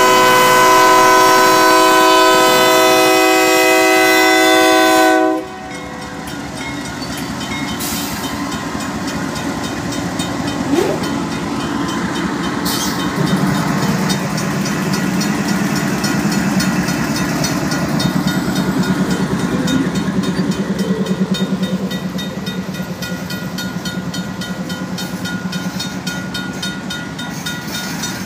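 Union Pacific diesel locomotives passing through a grade crossing. The lead unit's air horn sounds a loud chord that cuts off about five seconds in. Then the engines run past with wheels on the rails and the crossing's mechanical bell ringing rapidly, and the engine drone grows stronger about halfway through as the second locomotive goes by.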